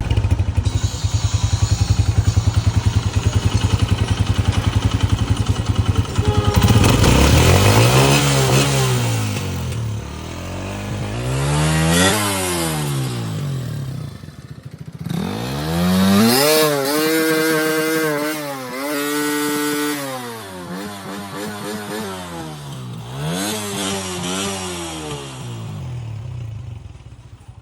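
Motorcycle engine idling with a steady beat for about six seconds, then revved up and back down several times on the throttle.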